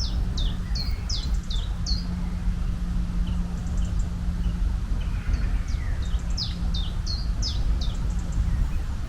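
Birds chirping in two runs of quick, high, falling chirps, one at the start and another about six seconds in, over a steady low rumble.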